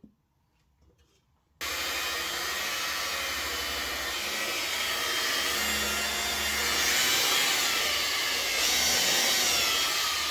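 A DeWalt variable-speed buffer switches on about one and a half seconds in and runs at low speed, its pad working cutting compound into a fender flare. The steady whir swells slightly a couple of times.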